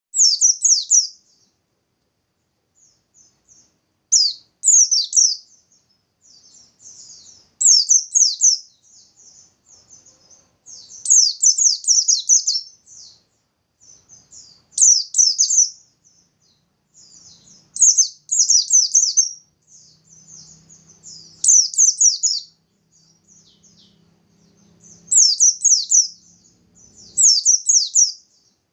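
White-eye (pleci) singing a rapid, high-pitched burst song of quick falling notes, each burst about a second long and repeating every three to four seconds, with soft twittering in between. This is the vigorous song that fanciers call 'gacor', played as a lure to set other pleci singing.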